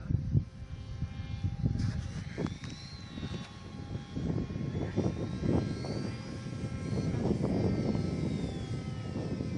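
Small propeller motor of a handmade MQ-9 model aircraft buzzing in flight, its pitch rising and falling as it passes. Wind buffets the microphone with a heavy rumble throughout.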